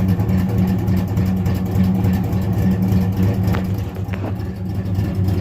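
Rebuilt 355 small-block V8 running steadily, a low, even engine note with no miss.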